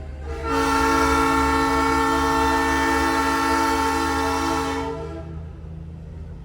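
Nathan Airchime P3 three-chime train horn mounted on a semi truck, blown in one long chord lasting about four and a half seconds, over the steady low rumble of the truck.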